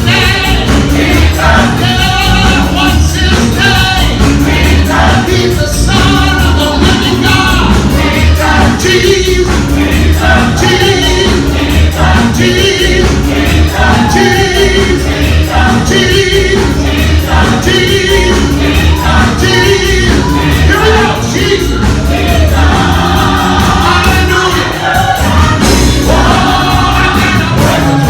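Gospel music with a choir singing over a steady beat and bass.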